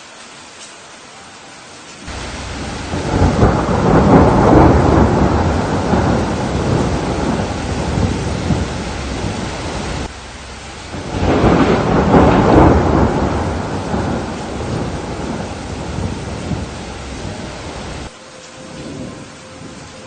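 Steady rain with two long rolls of thunder. The first swells up about two seconds in; the second rises about eleven seconds in; each rumbles and fades slowly.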